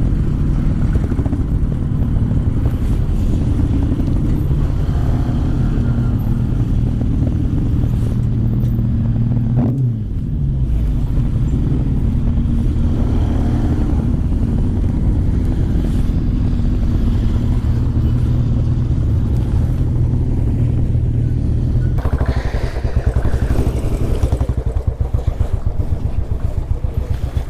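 Motorcycle engine running steadily at low revs while the bike is ridden slowly and parked, with a brief drop in engine speed about ten seconds in.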